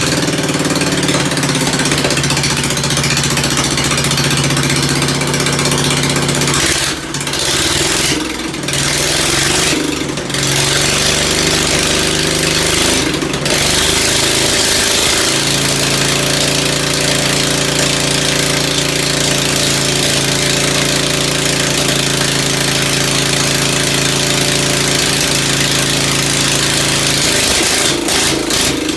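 Ford engine running after a tune-up. Its speed shifts a few times, with brief dips, between about seven and fifteen seconds in, then it runs steadily.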